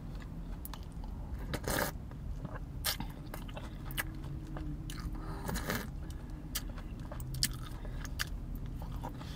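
Close-up eating sounds: chewing a soft-shell birria taco soaked in consomé, with many short wet mouth clicks. There are two short noisy bursts, about two seconds and six seconds in, as broth is sipped from the cup.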